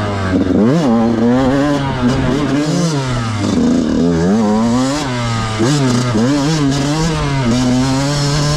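Yamaha YZ125 two-stroke dirt bike engine being ridden hard, its pitch climbing and dropping again and again as the throttle is opened and rolled off.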